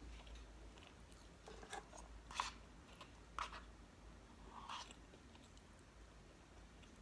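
Close-miked eating: a handful of short, crisp chewing crunches roughly a second apart, faint over a low hum.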